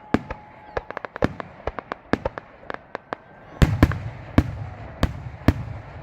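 Fireworks going off: a quick string of sharp cracks and pops, then louder, heavier booms with a low rumble from about three and a half seconds in.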